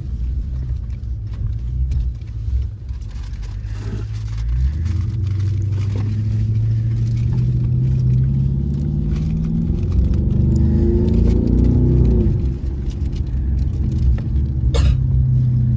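Car engine accelerating hard: a low rumble whose pitch climbs steadily for about seven seconds, then drops off sharply near the end. A brief click comes shortly after.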